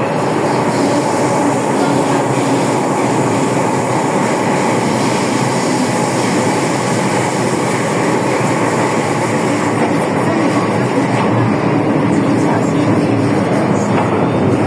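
Hong Kong MTR M-Train metro car running through a tunnel, heard from inside the car: a loud, steady rumble and hiss of wheels on rail and traction gear. The high hiss drops away about ten seconds in.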